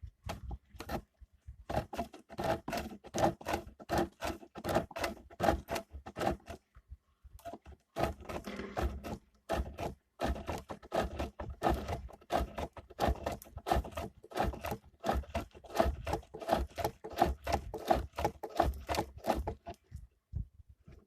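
A turning tool cutting wood on a homemade wooden lathe, in a fast, even rhythm of scraping strokes, about three or four a second. The run breaks off briefly in the middle, then carries on.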